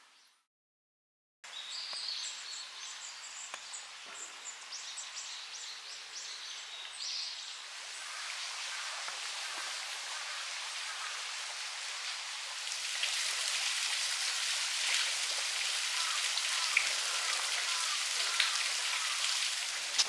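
Rain falling outdoors: a steady hiss with scattered small drop ticks that grows heavier about twelve seconds in, after a second of silence at the start. Faint high chirps sound in the first few seconds.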